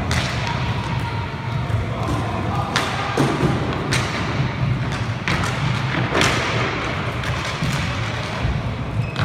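Inline hockey play: about half a dozen sharp knocks at irregular intervals, from sticks striking the puck and the puck hitting the rink boards, over a steady low rumble.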